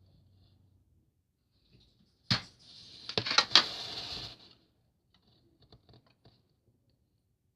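Packaging being handled while a model airplane is unboxed. A sharp click comes about two seconds in, then about two seconds of crinkling with a few louder clicks, then a few faint clicks.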